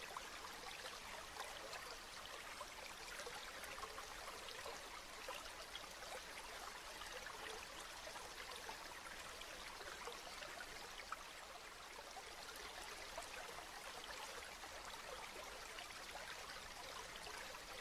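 Steady rain falling: an even hiss of countless small drops that holds unchanged throughout.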